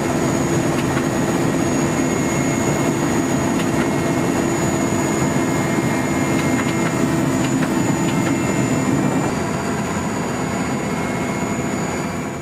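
Steady drone of an aircraft's turbine engine, with a constant whine over a dense rushing noise, a little lower over the last few seconds.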